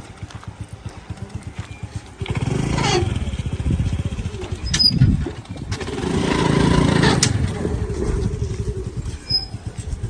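A two-wheeler's engine running, then revving up about two seconds in and again around six seconds in, as the motorcycle is moved onto a ferry boat.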